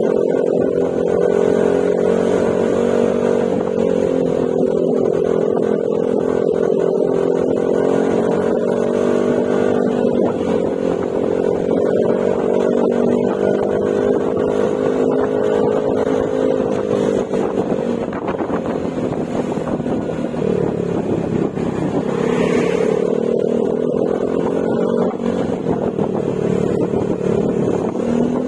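Yamaha Mio Gravis scooter's single-cylinder four-stroke engine running steadily at cruising speed through an Akrapovic exhaust with silencer. The engine note eases off a little about two-thirds of the way through, then picks up again.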